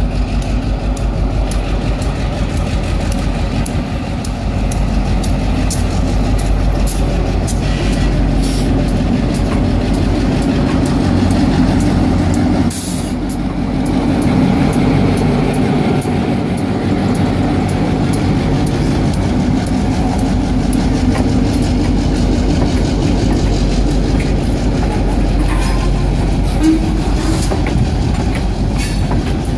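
EMD GP18 diesel-electric locomotive pulling a loaded train of tank cars slowly past, its diesel engine running with a steady drone, followed by the tank cars' wheels rolling by on the rails.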